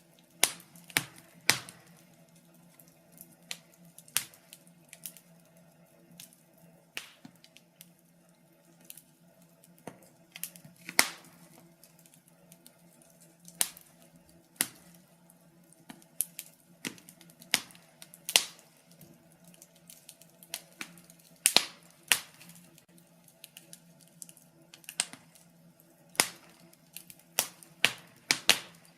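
Wood fire in a fireplace crackling, with irregular sharp pops and snaps of burning timber, several loud ones among many small ones, over a faint steady low hum.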